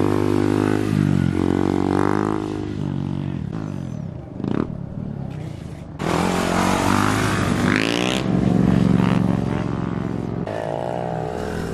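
Motorbike engines revving and running, the pitch rising and falling repeatedly, with a quick climb in revs about eight seconds in. The sound changes abruptly about six seconds in.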